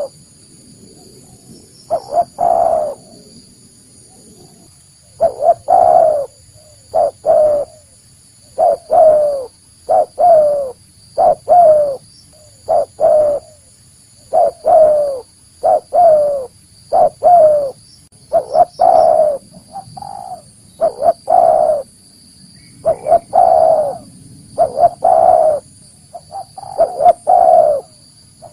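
Spotted dove cooing: short phrases of two or three coos, the last one longer and falling in pitch, repeated over and over with brief pauses between.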